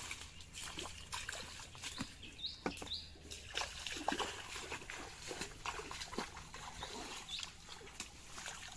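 Irregular splashing and sloshing of shallow water as it is worked by hand, with a few brief high chirps about two and a half seconds in and again near the end.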